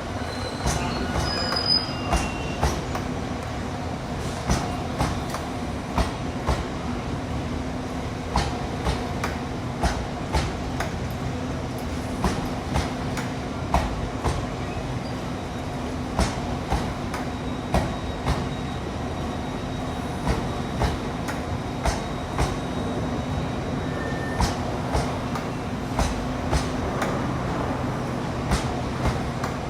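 Train rolling through a station, its wheels clacking over rail joints and points about one to two times a second, over a steady low hum.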